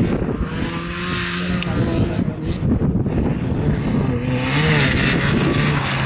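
Ford Fiesta XR2i rally car's engine run hard through the course, its pitch holding, dropping and picking up again with throttle and gear changes. A hiss of tyres on loose concrete grows louder from about four and a half seconds in.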